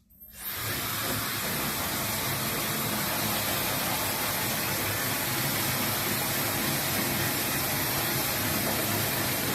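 High-velocity pet dryer switched on and blowing steadily, a loud even rushing hiss that starts abruptly just after the beginning.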